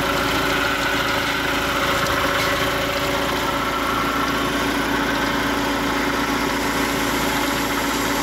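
2008 Mahindra Scorpio's diesel engine idling steadily with its front drive belts and pulleys turning, on a test run after a new water pump, belts and tensioner bearing have been fitted.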